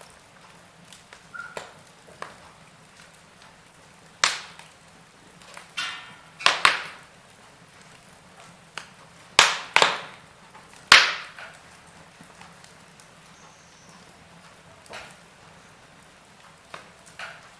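Wood fire crackling in a fireplace: a faint steady hiss broken by small ticks and several sharp, loud pops of burning wood, the loudest cluster about four to eleven seconds in.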